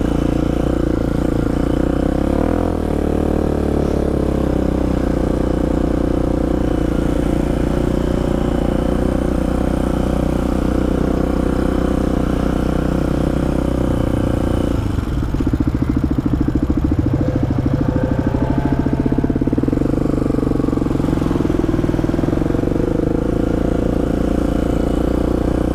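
Polaris Predator sport quad's single-cylinder four-stroke engine running steadily at trail-cruising pace, heard from the rider's helmet. About halfway through the engine note changes, with a short rise in pitch.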